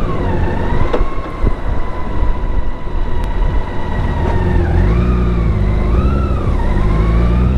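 BMW K1600B motorcycle's inline-six engine running under way amid wind and road noise, picking up revs near the end. A whistle-like tone wavers up and down over it in the second half.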